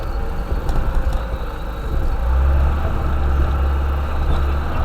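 Low, steady drone of a UAZ 'bukhanka' van's engine and running gear heard from inside the cabin while driving, swelling a little about two seconds in.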